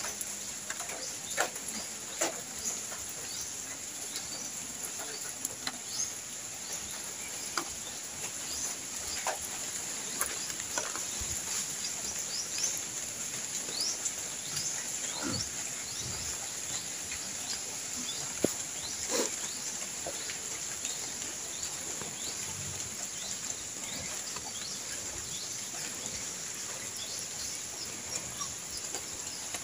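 Rural outdoor ambience: a steady high-pitched drone, with many short bird chirps and a few louder animal calls.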